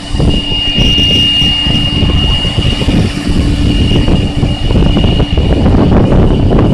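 Airliner jet engines running loud: a steady high whine over a deep rumble.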